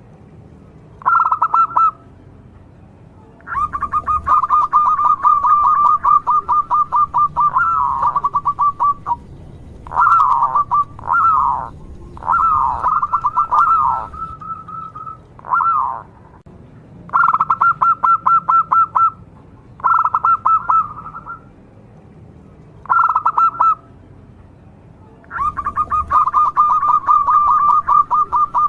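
Zebra dove (local perkutut) singing actively: repeated bursts of rapid, rattling pulsed notes, each burst from about one to several seconds long, separated by short pauses.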